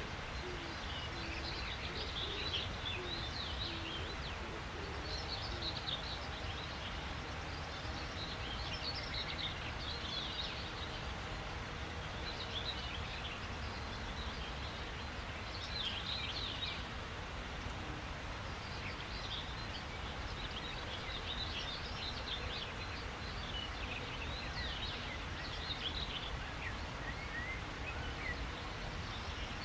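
Several songbirds chirping and trilling in short, high phrases throughout, over a steady background hiss and low rumble. A low call repeats several times in the first couple of seconds.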